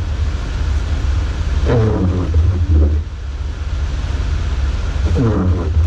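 Jeep running, a steady low rumble with a deep drone throughout.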